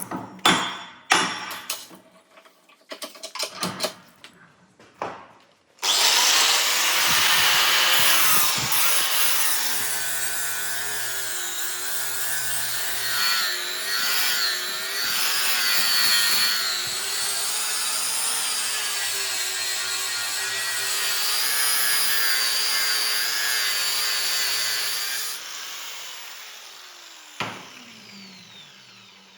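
A few knocks and clicks, then about six seconds in a power grinder starts up and grinds the steel blade, with a harsh, steady grinding noise whose pitch wavers. This is the rough-grinding stage of a forged Damascus steel blade. Near the end the grinder is switched off and winds down with a falling hum.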